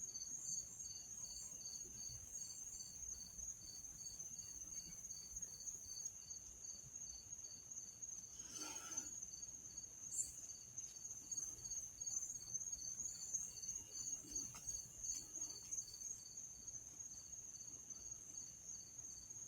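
Faint, steady chirping of night insects such as crickets, a high trill with an even pulse of a few chirps a second.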